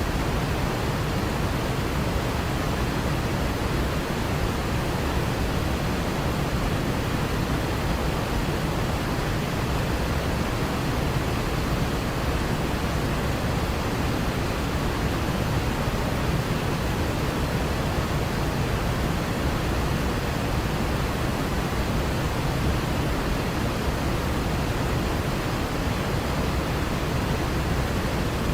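Waterfall: a continuous, even rush of falling water with no change in level.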